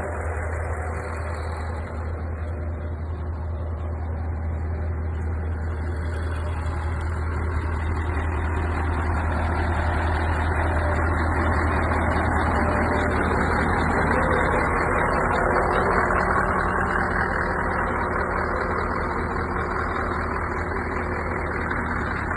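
Scania R164 tipper truck's V8 diesel engine running steadily with a deep hum, growing louder toward the middle and easing off a little near the end.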